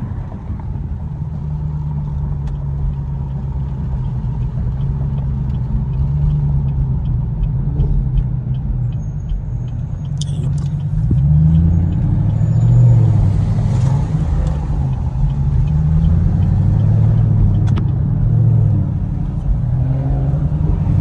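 Car engine and exhaust drone on the move, low and steady at first; from about halfway through, the revs rise and fall several times as it accelerates and shifts.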